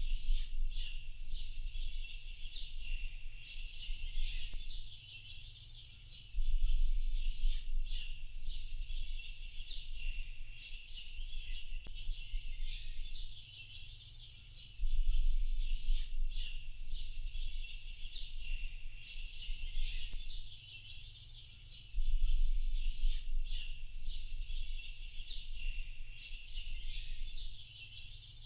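Dense chorus of small birds chirping and twittering without a break, high-pitched and overlapping. Under it a deep low rumble comes and goes in stretches of several seconds, about four times.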